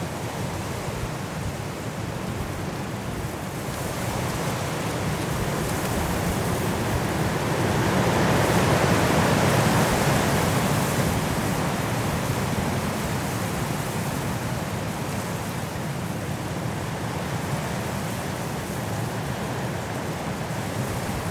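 High wind blowing through trees in a snowstorm, a steady rush. A gust builds toward the middle and then eases off.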